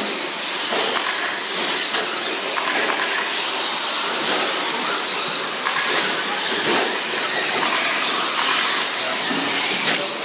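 Radio-controlled short course trucks with 17.5-turn brushless electric motors running together, their high motor whines rising and falling over a steady hiss of tyres.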